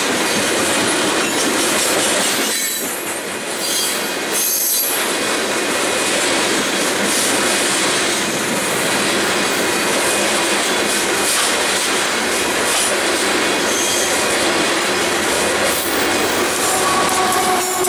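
Freight train of covered grain hopper cars rolling past close by: a steady, loud rush of steel wheels on rail with clickety-clack and faint high wheel squeals. Near the end a few steady tones rise above the rolling noise.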